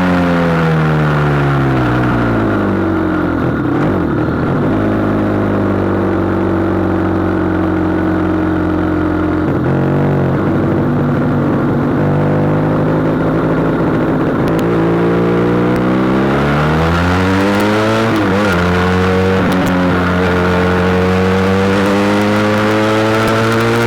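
SBM 400 motorcycle engine on the move. Its note drops as the bike slows over the first few seconds, holds steady, dips briefly about ten seconds in and falls again, then climbs as it accelerates about sixteen seconds in and holds steady to the end.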